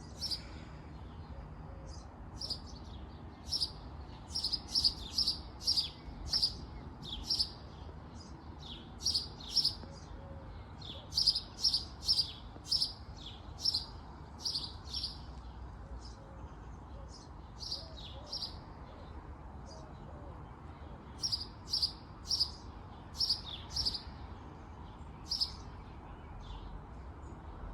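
Small songbird chirping: many short, high calls at an uneven pace, coming in bouts with short gaps, over a faint steady low background rumble.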